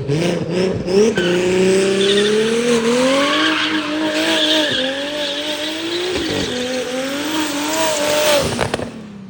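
Big-turbo BMW N54 inline-six revving hard with tires squealing. About a second in the engine note jumps and climbs over the next couple of seconds, holds high with a brief dip near six seconds, and cuts off near the end.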